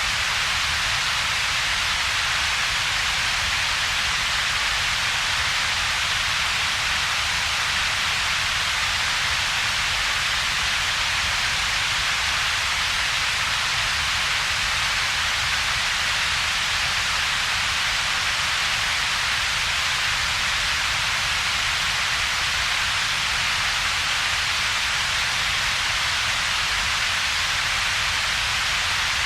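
Synthetic double-peaked coloured noise: a steady, unchanging hiss made of two bands, a low rumble and a stronger, brighter hiss, with a hollow gap between them.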